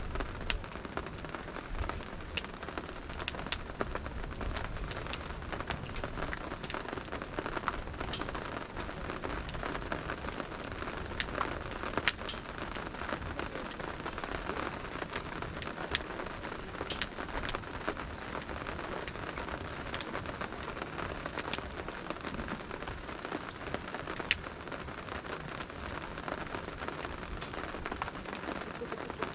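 Steady rain falling, with a campfire crackling: sharp pops scattered irregularly through the even hiss of the rain.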